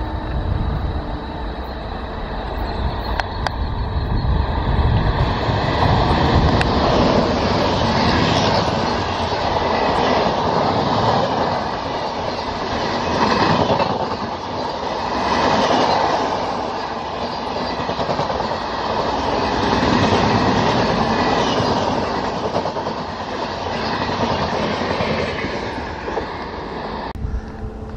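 An express train's passenger coaches passing close at speed: a loud rush of steel wheels on rail with clickety-clack over the rail joints, swelling and easing as the bogies go by. The sound cuts off abruptly shortly before the end.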